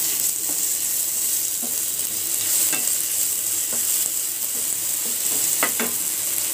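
Sliced onions with ginger-garlic paste sizzling in hot oil in a nonstick frying pan while being stirred with a plastic spatula. A steady high sizzle with light scrapes and taps of the spatula on the pan, two sharper taps close together near the end.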